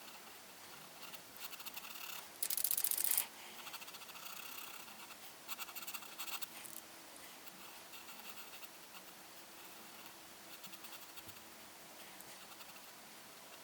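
A coloring tool scratching across paper in quick back-and-forth strokes, in bursts, loudest and densest for about a second near the start.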